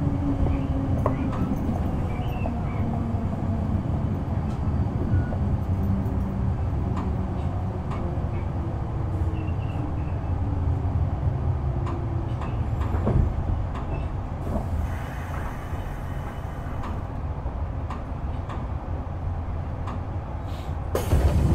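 Kintetsu 6020-series commuter train heard from inside the passenger car as it slows for a station: the traction-motor whine falls in pitch over the first ten seconds, with scattered clicks from the wheels over the rails. About fifteen seconds in there is a brief hiss and the running noise drops as the train comes to a stop.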